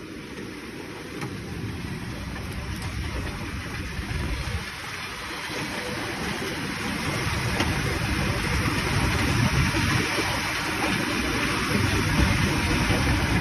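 Tractor engine running steadily at about 1500 rpm in fourth gear while pulling a seed drill, growing steadily louder.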